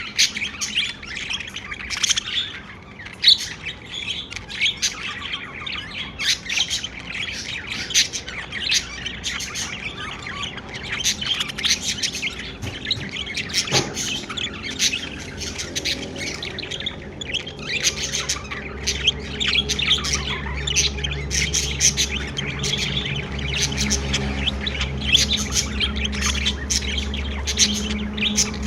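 Pet budgerigars chirping in a dense, unbroken run of short calls. A low steady hum comes in about two-thirds of the way through.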